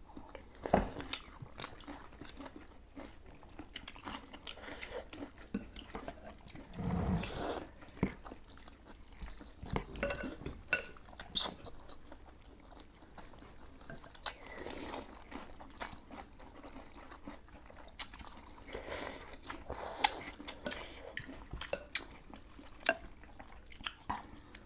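Close-up eating sounds of people eating noodle soup: chewing and biting, with scattered small clicks and a few short louder noisy bursts.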